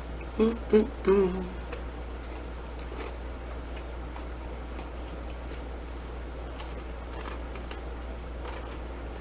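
A woman's three short hummed "mm" sounds about half a second in, then quiet chewing with a few faint mouth clicks over a steady low hum.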